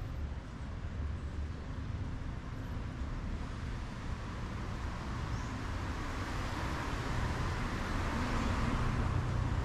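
Street traffic: a vehicle passing, its noise growing louder toward the end over a steady low rumble.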